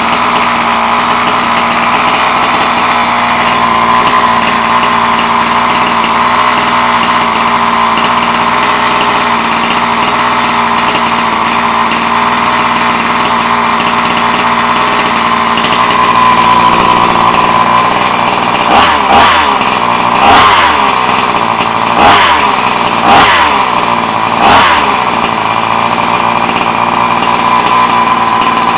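30.5 cc two-stroke engine of a 1/5-scale Baja RC car idling steadily, then given about five quick throttle blips in a row, each rev dropping back to idle.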